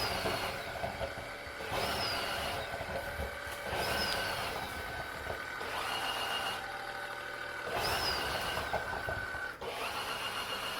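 Tineco Floor ONE S7 PRO wet-dry vacuum running its self-cleaning cycle on the dock, washing the brush roller: a steady motor whine that surges about every two seconds, each surge starting with a short falling high tone.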